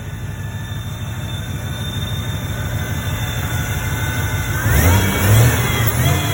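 Ford 460 big-block V8 running again now that its distributor drive fault is fixed, rumbling steadily and then revved up sharply a couple of times about four and a half seconds in.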